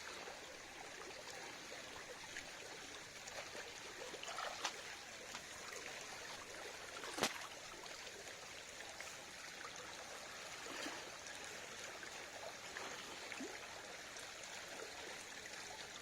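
Water trickling and flowing steadily, with one sharp click about seven seconds in and a few faint ticks.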